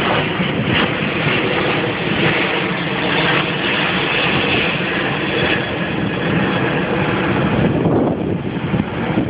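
Airbus A380 jet engines at departure thrust, a loud steady noise heard through a phone microphone. Near the end the high hiss falls away and wind buffets the microphone.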